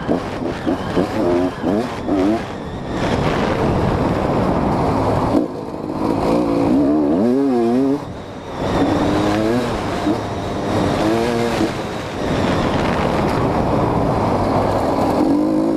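GasGas EC 250 two-stroke single-cylinder engine revving up and down, its pitch rising and falling repeatedly with the throttle, with a couple of brief drops in level.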